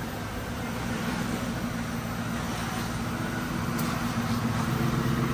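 A 1996 Ford Mustang SVT Cobra's 4.6-liter V8 idling steadily, still warming up shortly after a cold start.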